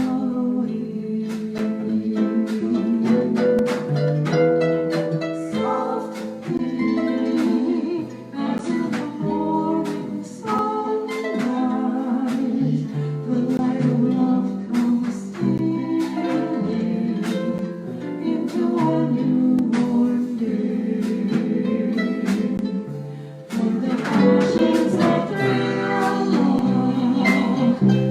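Live harp-jazz ensemble playing, plucked harp and string notes with a singer's voice.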